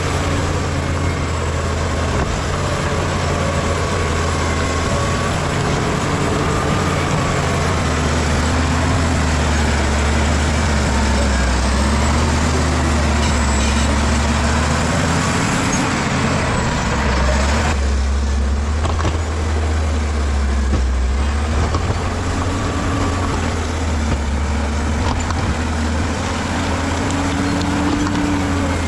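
Bulldozer's diesel engine running steadily and loudly, its pitch drifting up and down as the machine works. About two-thirds of the way through, the higher part of the sound briefly drops away while the low engine hum carries on.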